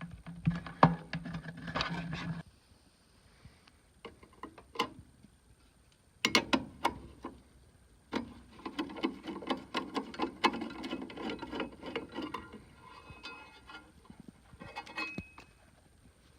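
Clicks, knocks and rattling in clusters from tools and metal furnace parts being handled, with a short steady low hum in the first two seconds or so.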